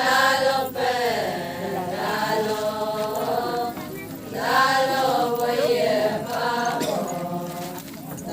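Voices chanting an Adi Ponung song in long, drawn-out sung phrases with short breaks between them, without instruments.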